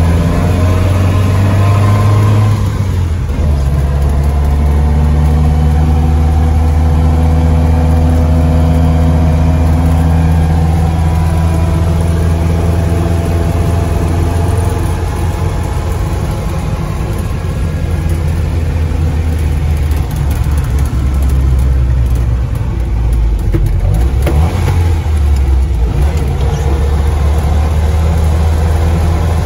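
A 1957 Land Rover Series 1 engine and drivetrain running under way, heard from inside the cab. The engine note drops about three seconds in, then climbs steadily as the vehicle picks up speed, and eases and rises again later on.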